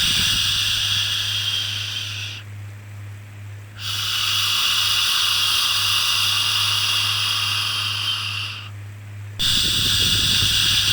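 Long 'shhh' shushing sounds for soothing a baby, each lasting several seconds. They break off twice, for about a second and a half and then under a second, before the next shush starts. A steady low hum runs underneath.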